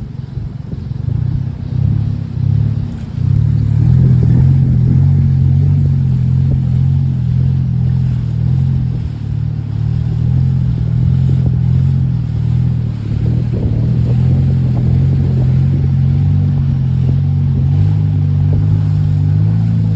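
A boat's engine running under power, rising over the first few seconds and then holding a steady, loud drone.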